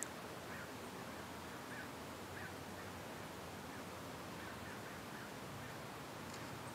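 Quiet outdoor background hiss with a few faint, brief bird chirps scattered through it, and a single small tick right at the start.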